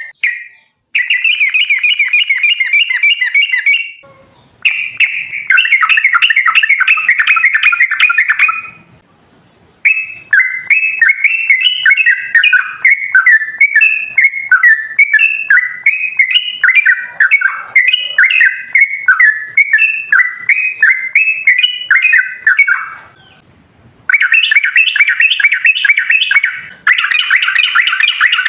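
Yellow-vented bulbul (trucukan) singing loud, fast chattering phrases in its long rolling 'ropel' song. The song comes in several bursts with short pauses between them, the longest lasting about thirteen seconds.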